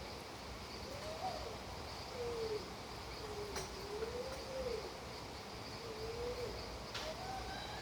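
Steady rain hiss with a continuous high insect trill. An animal call, a wavering whistle gliding up and down in pitch, comes several times, and there are two sharp clicks, about three and a half and seven seconds in.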